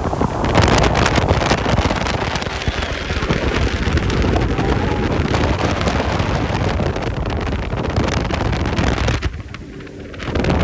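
Wind buffeting the microphone and water spray while riding a jet ski at speed, a loud rushing noise that eases for about a second near the end.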